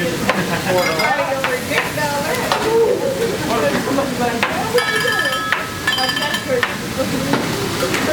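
Food sizzling on a hibachi griddle, with repeated clicks and scrapes of metal spatulas on the hot plate, over background chatter.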